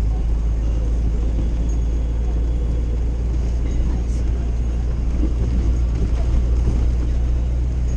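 Steady low rumble inside an old Jeep's cabin while it drives on a snow-covered road: engine and tyre noise.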